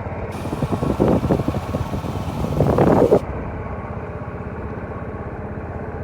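Motorcycle engine running on the move, with a steady pulsing beat; it swells louder briefly about a second in and again around three seconds in, then holds steady.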